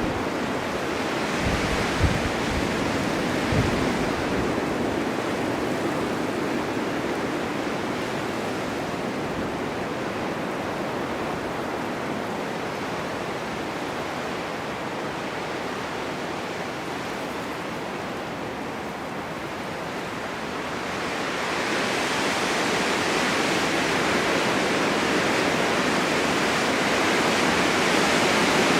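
Blizzard wind blowing snow: a steady rushing noise that eases through the middle and swells again in a gust about two-thirds of the way in. There are a couple of short low thumps about two and three and a half seconds in.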